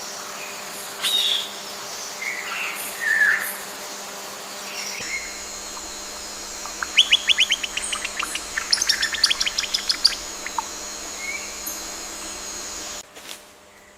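Birds calling: a few short chirps, then a fast chattering run of rapid repeated notes lasting about three seconds. The steady background ambience drops away abruptly near the end.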